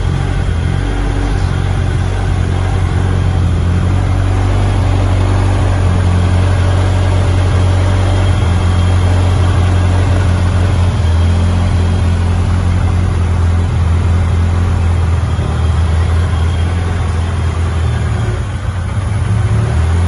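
Honda B20 inline-four engine in an Integra running steadily, its pitch shifting up and down slightly.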